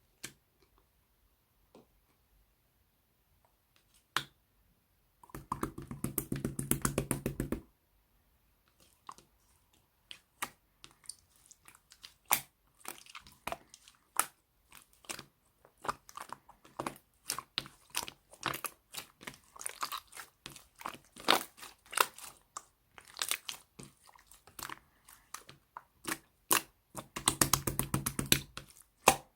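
Slime being pressed and folded by hand, making a run of small clicks and pops. Two stretches of rapid crackling, about five seconds in and again near the end.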